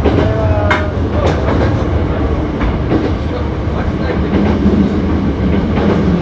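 Hankyu 7300 series electric train running: a steady rumble of wheels on rail with scattered clicks, a brief gliding squeal about half a second in, and a low hum that grows stronger in the last couple of seconds. This is the car known for its unusual running noise.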